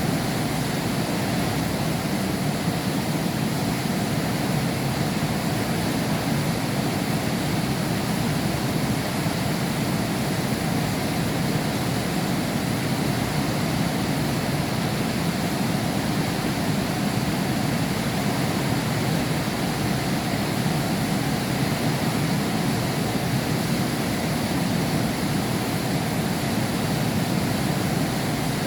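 Heavy rain falling steadily behind window glass: a dense, even rushing with a deep rumble, unchanging throughout.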